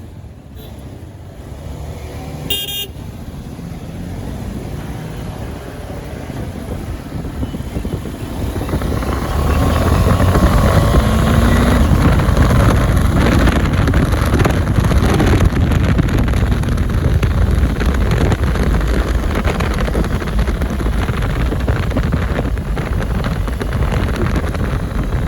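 A short horn beep near the start, then a KTM 390 Adventure's single-cylinder engine running under way, with the noise building to a steady loud roar heavy in the low end from about a third of the way in.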